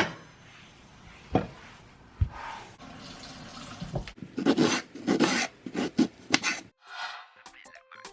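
Kitchen work sounds: three sharp knocks at irregular spacing, then a few seconds of rushing, splashy noise like running water. Music comes in near the end.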